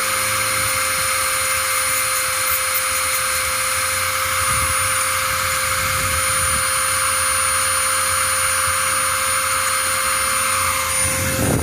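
A small electric motor running at a steady speed with a high whine, switched off near the end and winding down in pitch.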